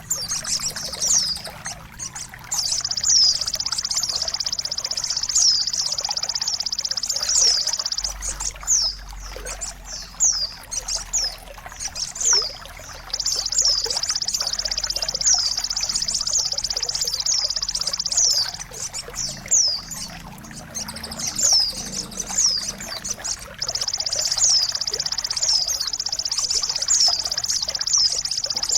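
Songbird song played for caged birds to learn from: repeated high downward-sweeping chirps alternating with long, rapid high trills of about five seconds each, three times.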